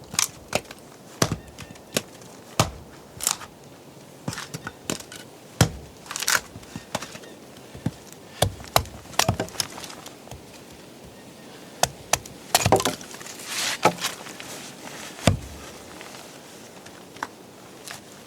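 Wood being chopped and broken up: irregular sharp cracks and crunches, a couple of dozen in all, with a dense cluster about two-thirds of the way through.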